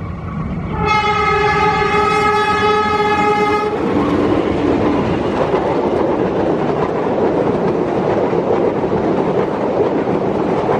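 Train horn sounding one steady tone for about three seconds, then a train passing close by with a loud rumble and wheels clattering over the rail joints.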